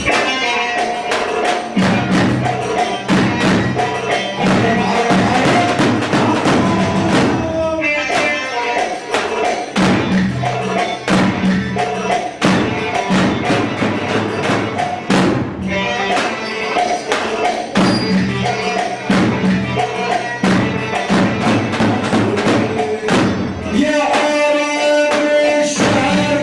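Levantine dabke dance music with a steady, driving drum beat under an instrumental melody; near the end the melody holds one long note.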